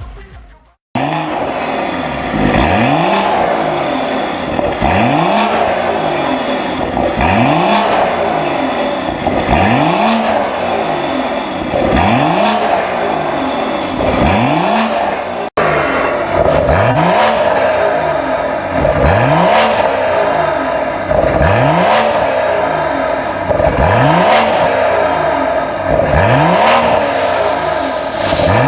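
BMW G30 540i's turbocharged 3.0-litre straight-six through a custom dual exhaust, revved over and over: a quick climb in engine speed and a fall back to idle about every two seconds, with a brief break about halfway.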